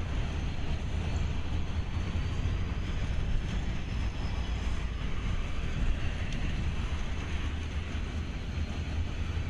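CSX freight train of covered hopper cars rolling past, a steady low rumble of wheels on the rails.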